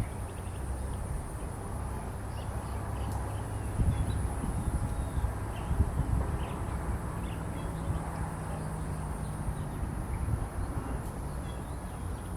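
Outdoor ambience: a steady high insect whine, with scattered faint, short bird chirps, over a low rumble that is the loudest part.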